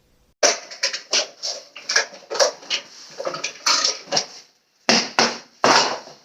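A run of loud, irregular clattering knocks and scrapes, about two or three a second, starting suddenly about half a second in, with a short pause near the end.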